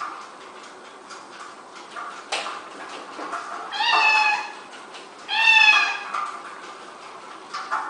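A domestic cat meowing twice, two drawn-out meows about a second apart, each sliding slightly down in pitch, the second a little louder. A short sharp click comes shortly before the first meow.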